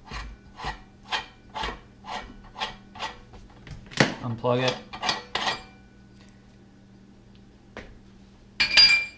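STX Turboforce 3000 electric meat grinder running with bread in it, giving a regular scraping click about twice a second, which stops with a sharp click about four seconds in. Near the end a short, bright metallic clink.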